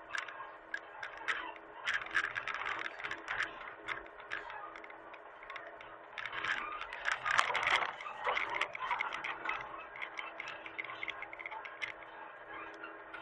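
Hitachi mini excavator working, a steady engine hum under dense irregular clicking and rattling that grows busiest midway through.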